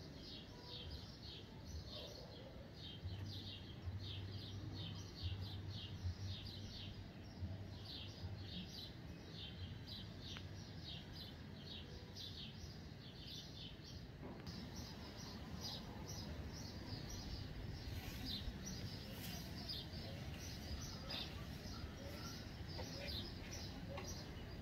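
A bird chirping over and over, short high chirps about two to three a second, faint. A low steady hum runs underneath for the first half.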